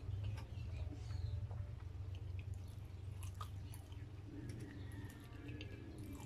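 Close-miked chewing of a mouthful of cheeseburger with Cheez Whiz, with scattered sharp mouth clicks and smacks, over a steady low hum.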